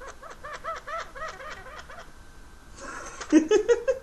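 Quaker parrot (monk parakeet) giving a rapid run of short, high chuckling notes like mimicked laughter, about five or six a second, then a louder, harsher run of notes near the end.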